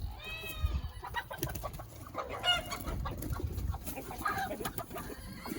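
Chickens in a coop clucking and calling several times, with rustling and light knocks in between.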